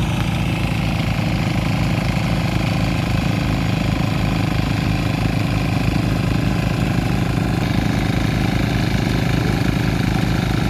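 Diesel engine of a small walk-behind tiller running steadily with a rapid, even beat while tilling a rice paddy.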